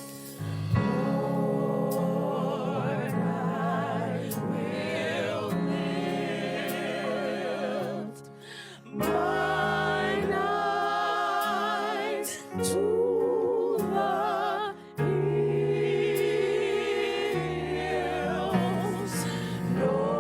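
Gospel choir singing long, held notes with vibrato over a steady low accompaniment, dipping briefly twice.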